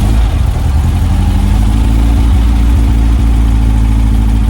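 1967 VW Splitscreen bus's air-cooled flat-four engine idling steadily on freshly fitted spark plugs, HT leads and distributor cap, running without the slight backfire it had before.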